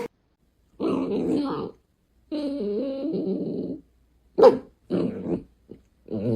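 A dog growling and grumbling in a run of separate rough vocal outbursts. The longest lasts over a second and wavers in pitch, and a sharper, shorter one comes about four seconds in.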